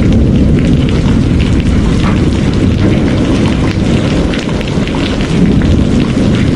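Heavy rain: a loud, continuous deep rumble with scattered sharp ticks of individual drops.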